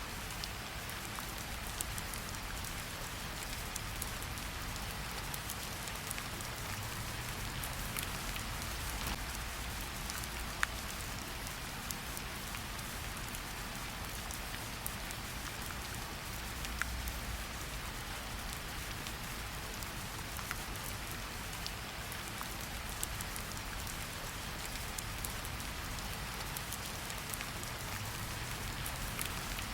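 Steady forest rain falling, a continuous patter with individual drops ticking sharply here and there.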